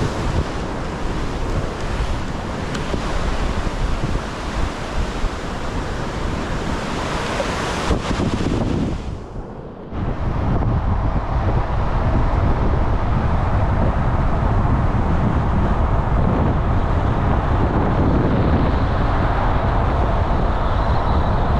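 Rushing of a river running high and fast, with wind on the microphone. About nine seconds in it drops out briefly and gives way to a steadier, lower rumble of wind noise.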